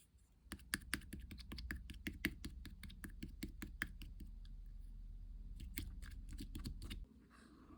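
Slime being pressed and squeezed by hand, giving quick, irregular clicks and pops that stop near the end.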